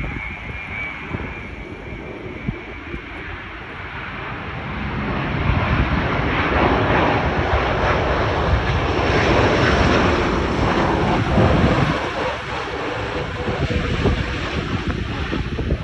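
Airbus A330-941 jet engines (Rolls-Royce Trent 7000 turbofans) running, a steady noise that swells about five seconds in and fades again near the end as the airliner passes, with some wind on the microphone.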